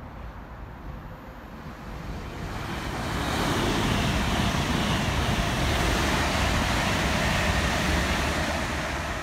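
Electric passenger train passing through at speed: the rush and rumble of wheels on rail builds from about two seconds in, holds loud, and begins to die away near the end.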